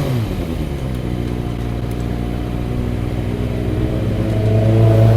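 Motorcycle engine running at steady revs under way, its pitch creeping slowly upward and growing louder near the end.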